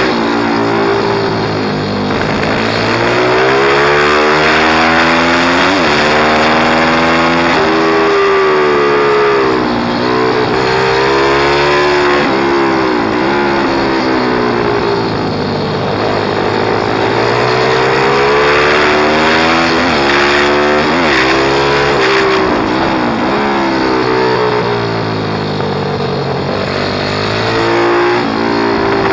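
Pit bike engine revving up and down over and over as the bike is ridden, its pitch climbing and dropping every few seconds as the throttle opens and closes through the gears.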